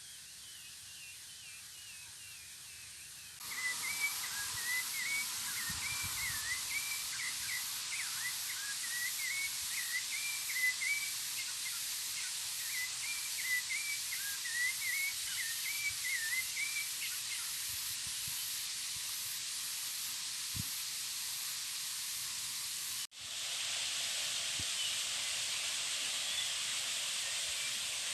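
A bird sings quick, repeated, warbling chirps for about a dozen seconds over a steady outdoor hiss. The background changes abruptly twice, the way it does at cuts between clips.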